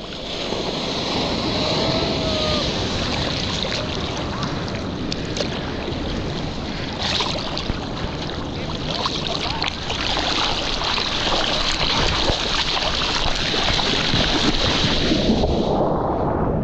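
Rushing, splashing sea water with wind buffeting the microphone, a loud steady hiss with small irregular splashes, cutting off just before the end.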